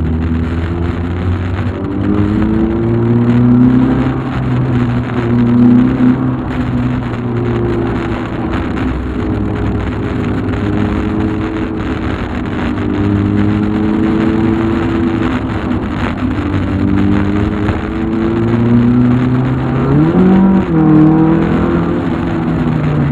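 Volkswagen Golf Mk2 engine driving along, its note rising under acceleration and dropping back several times as it goes through the gears.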